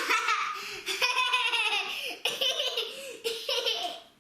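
A child laughing hard in repeated high-pitched bursts, fading out near the end.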